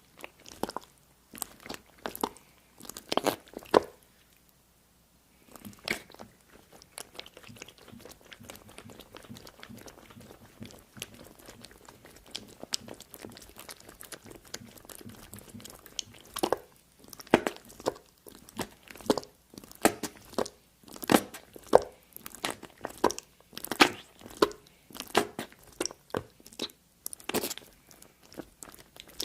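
Crunchy food being bitten and chewed close to the microphone: clusters of sharp crunches, a brief pause about four seconds in, softer continuous crackling through the middle, then rapid loud crunching in the last third.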